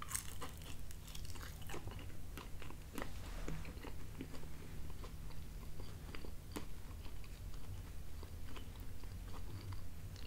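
A person biting into a thin-crust deluxe pizza slice near the start, then chewing it, with many small crisp clicks and crunches.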